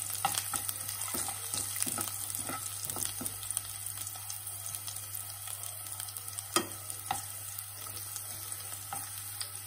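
Chopped garlic and cumin seeds sizzling in hot oil in a kadai, frying toward golden brown, with a flat spatula scraping and knocking against the pan now and then as it stirs; one sharper knock about two-thirds of the way through.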